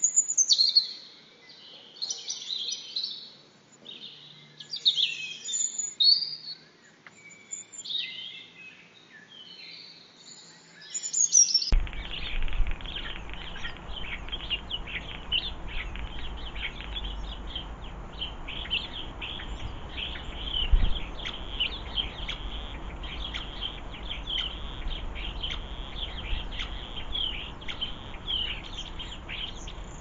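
Clear birdsong with sweeping calls for the first dozen seconds; then, after a sudden change about twelve seconds in, continuous rapid chirping of small garden birds over a steady low rumble.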